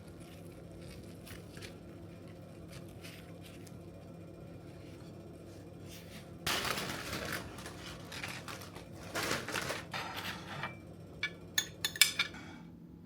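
Steady low hum, then two bouts of rustling handling noise a little past halfway, ending in a quick run of sharp clinks and clicks.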